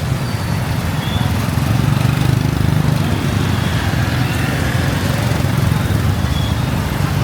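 Small motorbike engine running steadily while riding, with the fast even pulse of its firing, amid road traffic.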